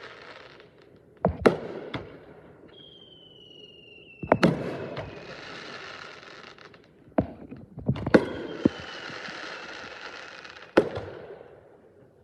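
Aerial fireworks bursting, with sharp bangs in groups of one to three every few seconds. Each group is followed by a long crackling fizz that fades out. A thin whistle, falling slightly in pitch, comes in after some of the bursts.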